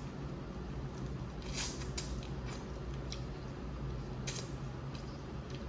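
Close-miked eating of a seafood boil: wet chewing and squishing, with a few short sharp clicks scattered through, over a steady low hum.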